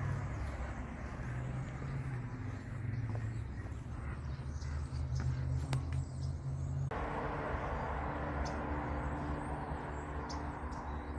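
Steady low mechanical hum under a haze of noise, which changes abruptly about seven seconds in to a different steady hum with faint short high chirps over it.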